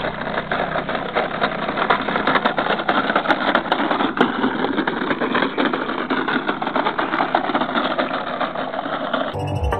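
Car engine running at low speed, mixed with a dense clatter of small clicks from a plastic toy dump truck being dragged on a string over a rutted dirt track. Electronic music with a heavy beat cuts in near the end.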